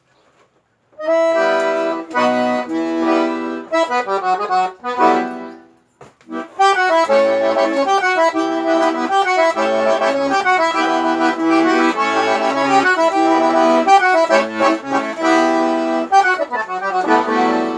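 Accordion (sanfona) playing a tune with melody, chords and bass notes. It starts about a second in, breaks off briefly near six seconds, then plays on.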